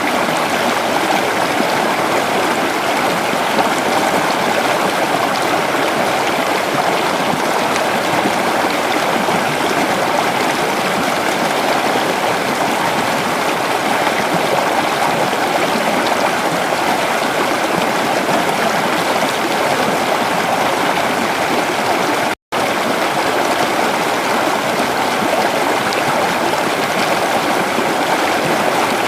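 Creek water running and babbling steadily over rocks, a continuous even rush, with a split-second dropout to silence about three-quarters of the way through.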